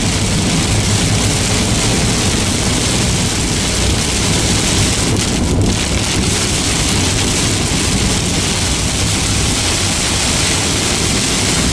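Heavy rain pelting a car's roof and windshield, heard from inside the moving car, over a steady low rumble of road and engine noise.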